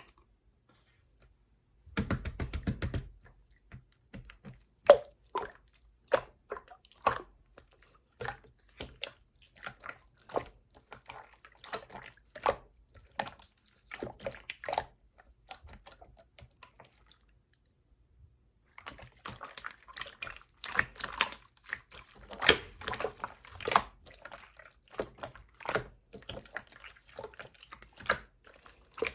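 Clear slime being squished and pressed by hand, giving irregular sticky clicks and small wet pops. It starts about two seconds in and pauses briefly around the middle.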